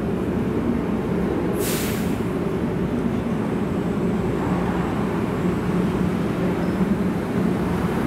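Automated people-mover train pulling out of the station behind closed platform doors: a steady low rumble with a motor hum, and a short hiss about two seconds in.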